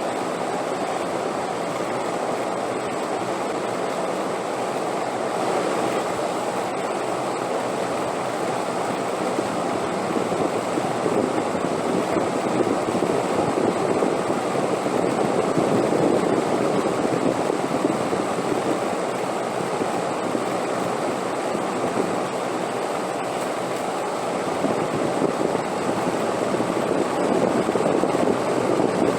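Steady wind blowing, a continuous rushing noise that swells gently and eases off again.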